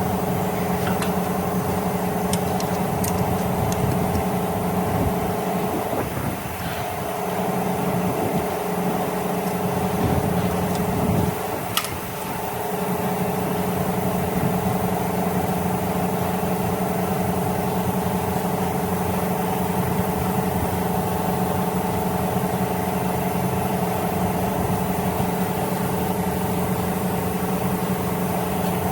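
Car engine running steadily, with a single sharp click about twelve seconds in.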